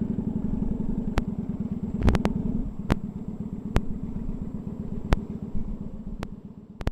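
Kawasaki motorcycle engine running at low speed, a steady low pulsing with a few sharp clicks over it. It fades in the last second and cuts off abruptly at the end.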